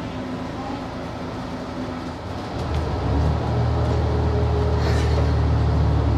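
HB-E300 series hybrid diesel train pulling out of the station, heard from the driver's cab. A low, steady drone comes in about two and a half seconds in and grows gradually louder as the train gathers speed.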